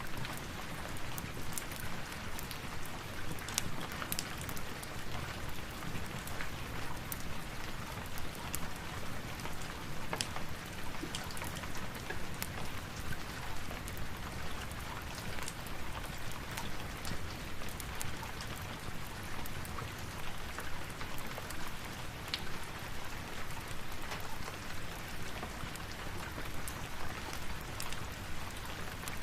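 Steady rain, an even hiss with many small sharp ticks scattered through it.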